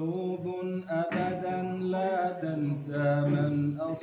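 A male voice chanting a devotional Arabic nasheed in praise of the Prophet, in long held notes.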